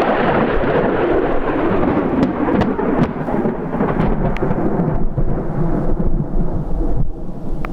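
Thunder from a nearby lightning strike, rolling and slowly fading over several seconds, with a few sharp ticks.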